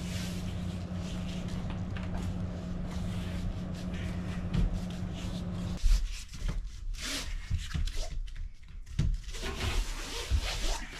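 A steady low hum that cuts off suddenly about six seconds in, with rubbing, tapping and light knocks as a glue-backed foam floor panel is positioned and pressed down onto the boat deck.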